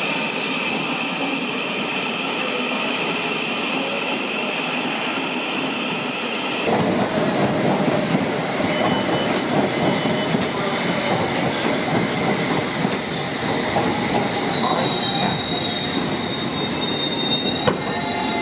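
Thameslink electric train running on the rails. Steady high-pitched tones give way abruptly, about a third of the way in, to a louder, rougher rumble of wheels on track, and a high wheel squeal comes in near the end.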